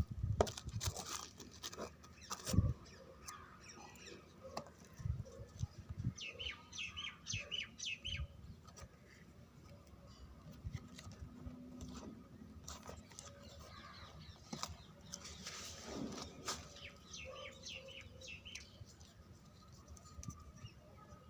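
Handling noises from unboxing a small 12 V DC motor: scattered knocks and rustles. Birds chirp in two short spells, once about a quarter of the way in and again near the three-quarter mark.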